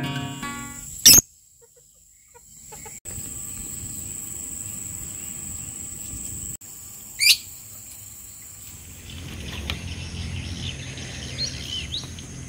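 Acoustic guitar music cuts off about a second in. Then comes outdoor rural ambience with a steady high-pitched tone and a low rumble. A bird gives a sharp chirp about seven seconds in and a few softer calls near the end.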